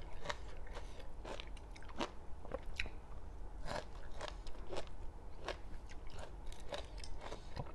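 Chewing and biting into crisp Chinese kale stems: irregular sharp crunches, roughly two a second.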